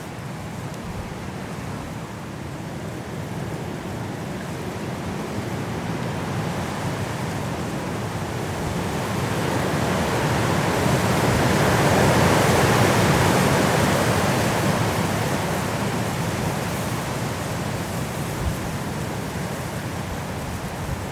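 Strong wind blowing through trees in a mountain snowstorm. A gust builds to a peak about halfway through, then eases off.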